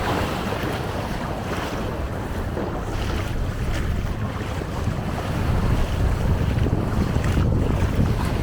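Wind buffeting the microphone in a steady low rumble, with sea waves washing on the stony shore behind it.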